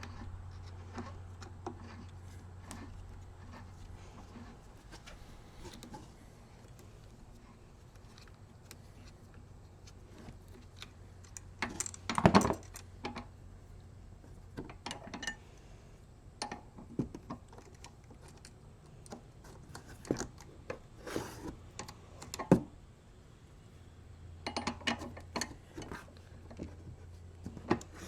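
Scattered clicks, clinks and light knocks of small bike parts and tools being handled during e-bike assembly, loudest about twelve seconds in, with a sharp click a little after twenty seconds. A low steady hum sits under the start and the end.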